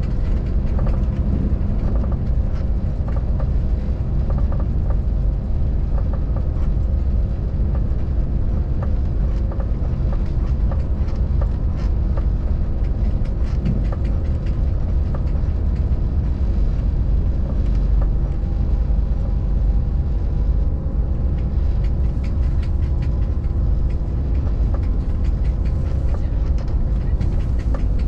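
Regional train running along the line, heard from inside the carriage: a steady low rumble of wheels on rails, with scattered light clicks and rattles.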